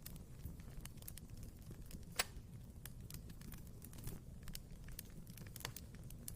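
Wood fire burning in a fireplace, crackling with irregular sharp pops over a low steady rumble; one pop about two seconds in is louder than the rest.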